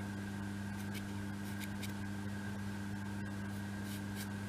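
Steady low electrical hum with a faint hiss, and a few faint ticks from handling small parts.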